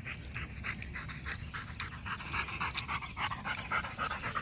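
A Rottweiler panting quickly and rhythmically, about four to five breaths a second, growing a little louder toward the end. It is breathing hard after chasing a thrown ball and is thirsty.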